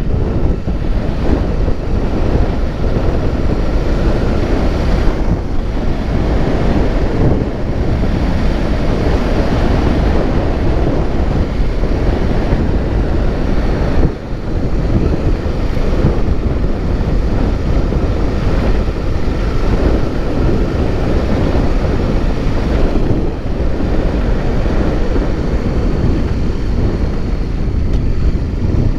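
Heavy wind buffeting the microphone while travelling, over a low, steady vehicle rumble, with a brief lull about fourteen seconds in.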